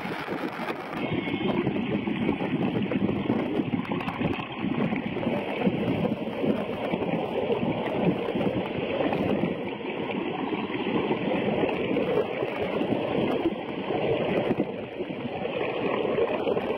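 Steady rushing, gurgling water noise with no clear whale calls.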